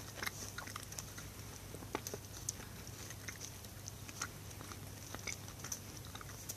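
Someone chewing a bite of soft pandesal bread roll, heard as faint, irregular mouth clicks scattered over a few seconds. A low steady hum runs underneath.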